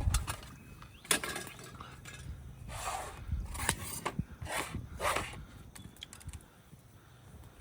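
Several short scrapes and clinks of objects being handled, spread over a few seconds.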